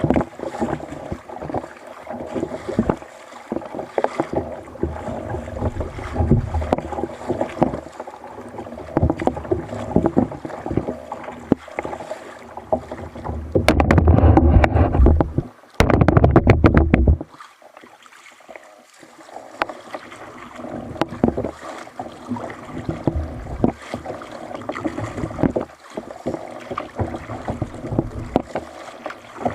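Water sloshing and knocking against a kayak at sea, with irregular small knocks throughout. A louder, deeper rush of noise comes in about halfway through and stops suddenly about three seconds later.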